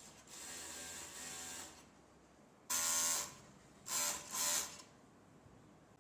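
Overlock sewing machine running in short bursts of stitching: a longer, quieter run, then a louder burst about three seconds in, then two quick bursts close together.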